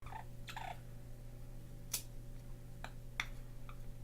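Sharp clicks of nail clippers cutting a parrot's claws: two strong snips about two seconds in and just after three seconds, with a couple of lighter clicks between, over a steady low hum.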